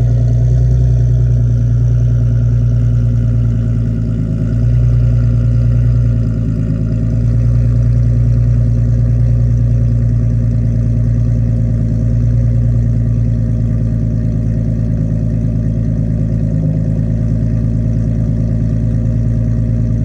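Nissan 370Z NISMO's 3.7-litre V6 idling steadily after a cold start, heard through non-resonated test pipes and a full GReddy exhaust.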